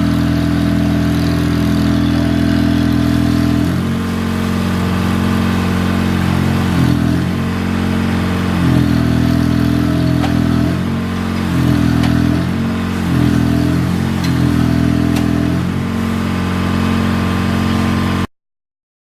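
Truck engine running, its speed dropping and rising again several times, then cutting off abruptly near the end.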